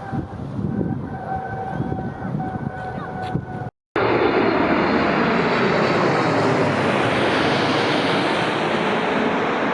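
Wind buffeting the microphone with a faint, steady engine whine in the distance, then an abrupt cut about four seconds in to the loud, steady roar of a jet airliner's engines as it passes close by, with slowly sweeping tones running through the noise.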